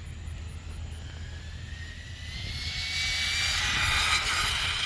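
High-pitched whine of a brushless RC-car motor (Racestar 3900 kV) running flat out on a 4S LiPo, rising in pitch and growing louder as the car speeds closer, loudest about four seconds in.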